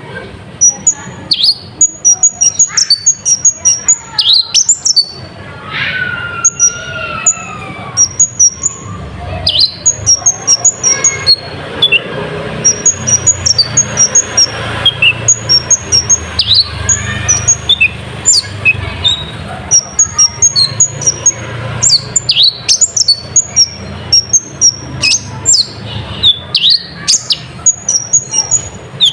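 Kolibri ninja sunbird song: rapid trains of short, high chirps and sharp ticks repeating in bursts, with a falling whistled note about six seconds in. The song is filled with mimicked nightjar (cabak) calls.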